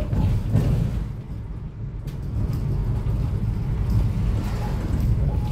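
Cummins ISF3.8 four-cylinder turbodiesel in a Daewoo Lestar minibus running under way, a steady low rumble heard from inside the bus. It eases off briefly about a second in, then builds back up.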